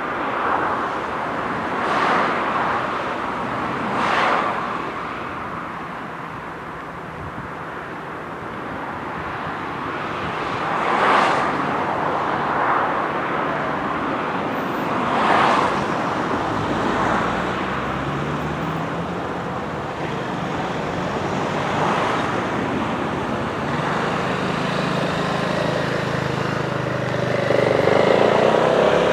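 Road traffic at a level crossing: cars pass one after another, each a brief swell of tyre and engine noise. Near the end a louder engine builds with a low hum.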